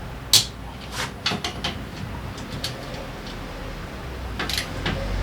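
Irregular sharp clicks and light knocks, like tools or small metal parts being handled, over a low steady hum. The loudest click comes about a third of a second in.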